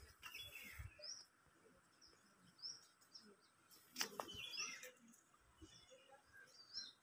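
Quiet outdoor background with small birds chirping a few times, short high calls. A brief sharp sound comes about four seconds in.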